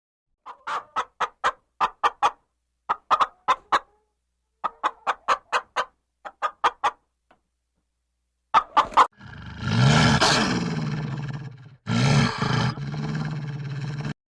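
A chicken clucking: quick runs of short clucks in groups over the first seven seconds. From about nine seconds in comes a much louder, longer, low-pitched call in two parts, from an animal that cannot be told.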